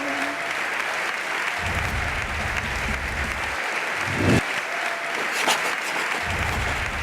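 Applause: steady clapping from many hands, with a dull thump about four seconds in.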